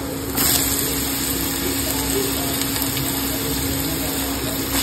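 Chopped ridge gourd (turai) tipped into a hot kadai of oil and fried onions, setting off a steady sizzle about half a second in.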